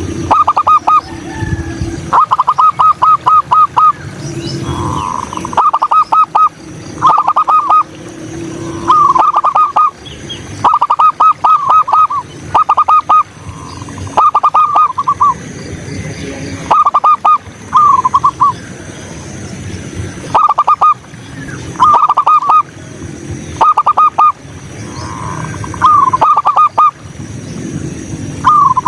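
Zebra doves (perkutut) cooing: over a dozen short bursts of rapid staccato notes, one every second or two.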